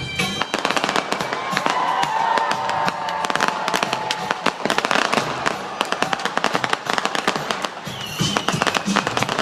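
A string of firecrackers going off in a rapid run of sharp cracks, starting about half a second in, easing briefly near the end and then picking up again.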